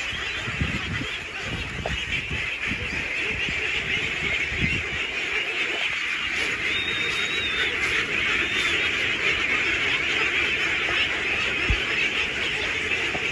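A large flock of ducks quacking all at once in a dense, steady din, with a few low thumps in the first few seconds.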